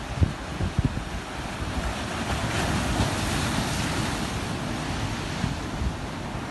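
Ocean waves breaking and washing in, one wave surging up about two seconds in and easing off after four. Wind buffets the microphone with low thumps in the first second.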